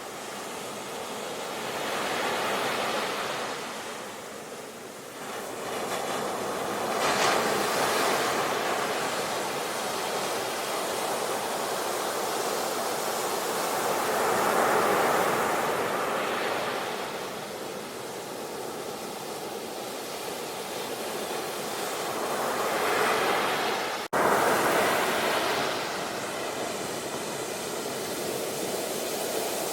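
Ocean waves breaking and washing on a shore, the surf swelling and falling back in slow surges every few seconds. About three-quarters of the way through, the sound cuts out for an instant and comes straight back.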